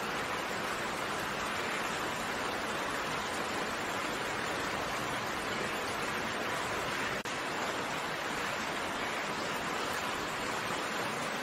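Steady rain, an even hiss of falling raindrops, with a brief dip in level about seven seconds in.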